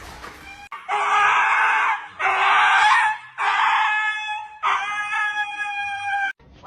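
Four long, loud, high-pitched screams in a row, each about a second long with short gaps, starting abruptly about a second in and cutting off just before the end.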